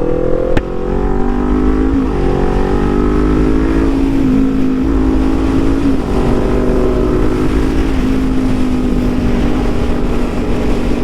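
Motorcycle engine pulling under acceleration. Its pitch climbs and drops back at each upshift, about every two seconds, three times, then settles into a steady cruise, with low wind rumble underneath.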